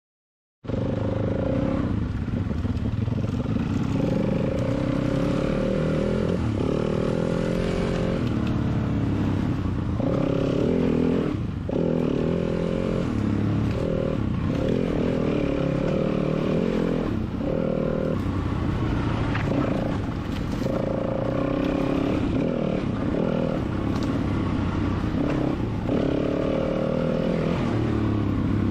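Four-stroke dirt bike engine running while being ridden on a trail, the revs rising and falling with short dips between pulls, over the clatter of the bike on rough ground. It starts suddenly about half a second in.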